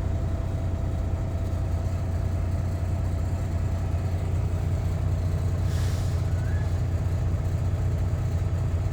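Semi-truck's diesel engine idling steadily, a low hum heard from inside the cab, with a short hiss of air about six seconds in.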